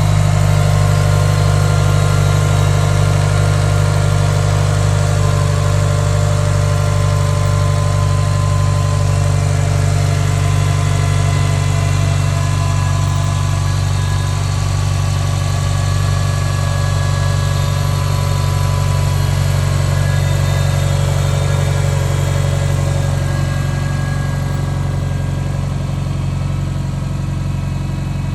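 Subaru EJ257 turbocharged 2.5-litre flat-four, swapped into a Forester, idling steadily during its cold-start warm-up. It grows slightly quieter over the stretch.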